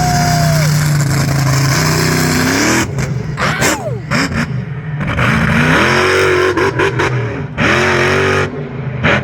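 Monster truck engine revving hard, held high at first, then dropping off the throttle about three seconds in and climbing back up in several surges before easing off again near the end.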